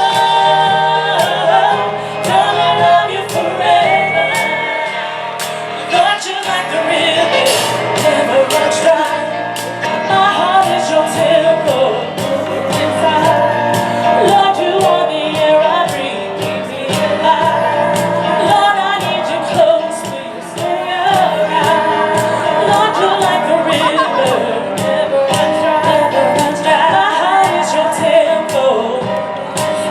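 Live gospel music: women's voices singing together, with piano and a drum kit keeping the beat.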